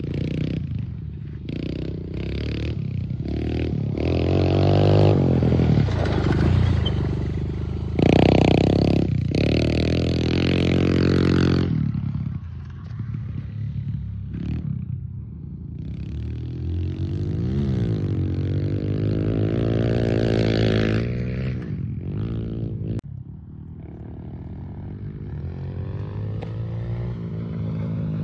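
Small off-road vehicle engine, revved up and down over and over as the throttle is worked and the gears are changed. It is loudest about a third of the way in, then eases off briefly near the end before picking up again.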